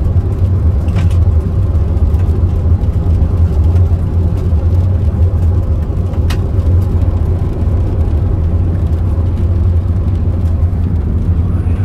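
Steady engine and road noise of a moving car heard from inside the cabin, a low even drone, with a couple of faint clicks, about a second in and about six seconds in.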